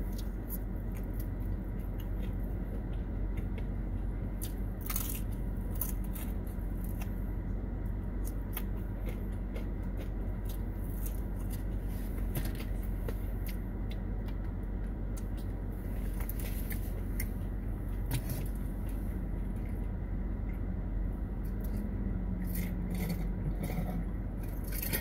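A person chewing and biting fried takeout food, with scattered small clicks and crackles of eating over a steady low hum inside a car.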